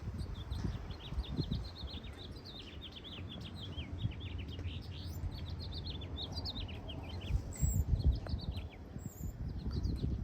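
Small birds chirping continuously, many quick, short chirps that drop in pitch, over a low rumbling noise.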